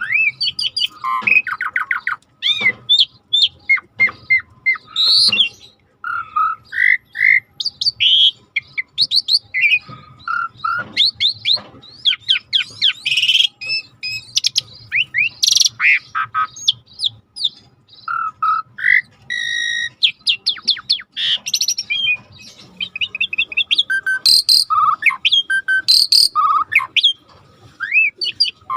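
Starling singing a long, varied song of rapid whistles, chirps, sweeping notes and trills, nearly without a pause.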